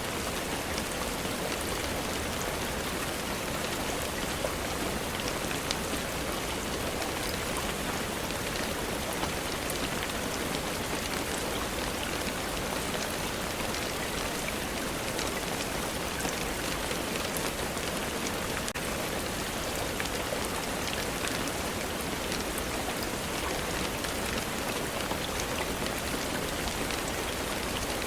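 Steady rainfall, an even hiss with scattered faint ticks of drops.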